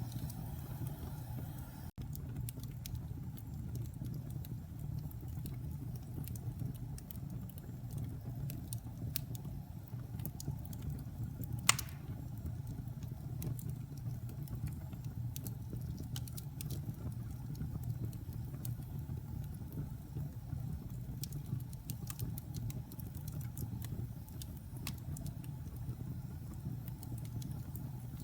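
Fire burning in a fireplace: a steady low rumble of flames with scattered small crackles, and one loud pop about twelve seconds in.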